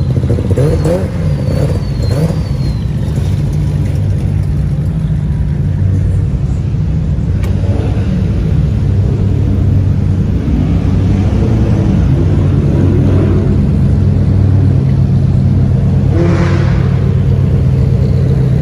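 Engines of several modified sports cars running as they roll out at walking pace, a steady low exhaust drone with a few revs in the first few seconds and a short louder swell near the end.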